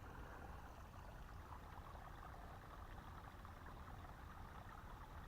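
Faint, steady outdoor ambience: a light trickle of water at a creek dam under a low rumble.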